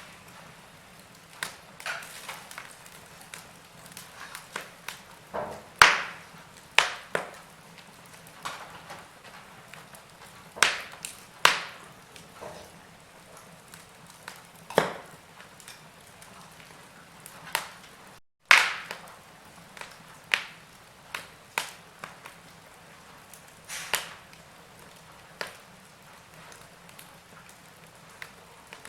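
Wood fire crackling in a fireplace: irregular sharp pops and snaps over a soft steady hiss, with a split second of total silence about two-thirds of the way through.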